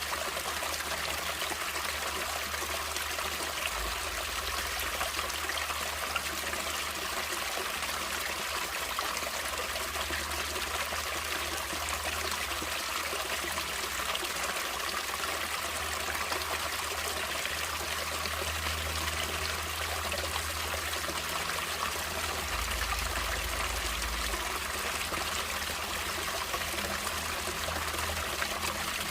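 Natural stream water running and trickling in a steady, unbroken rush, mostly a light, high hiss.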